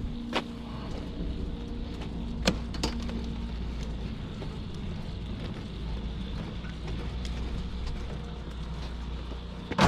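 A vehicle's engine running with a steady low rumble, broken by a few sharp clicks, once about half a second in and twice around two and a half to three seconds. A louder clatter starts right at the end.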